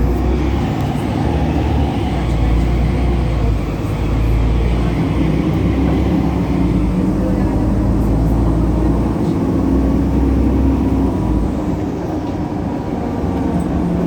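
Solaris Urbino 18 articulated bus's DAF Paccar PR265 straight-six diesel engine running steadily, with the loud belt noise this bus is known for.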